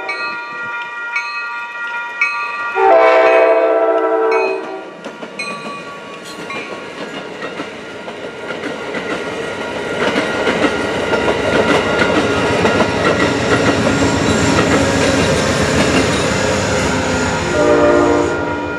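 Diesel passenger train sounding a loud horn chord about three seconds in, then passing with a rising rumble and wheels clacking over the rail joints, and a second horn blast near the end.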